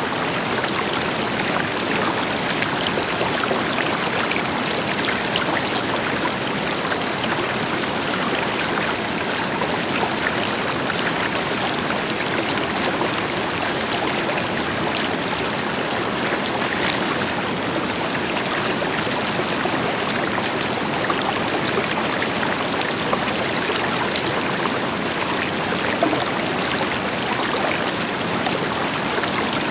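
River water flowing steadily over rocks, with the deeper rush of a waterfall in the background: a continuous, even splashing and gurgling.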